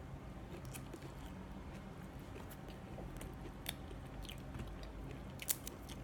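A person chewing a mouthful of sticky rice and chicken-liver curry, quiet wet chewing with a few faint sharp mouth clicks, the clearest near the end.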